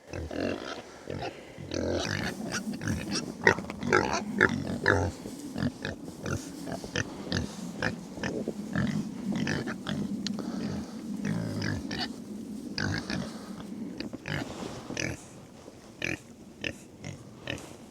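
Pigs grunting steadily while rooting and playing in a flake of hay, with short rustles and crackles throughout; the activity thins out near the end.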